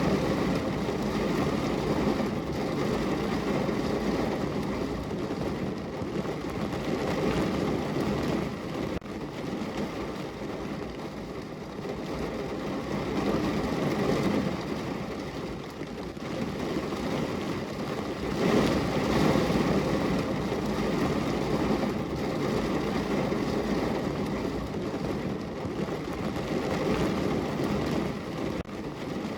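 Heavy rain falling on a car's roof, heard from inside the car: a dense, even patter that swells and eases every several seconds.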